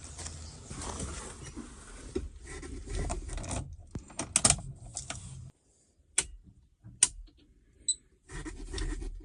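Rustling handling noise, then two sharp clicks, a short high-pitched beep and more rustling, with no engine running yet.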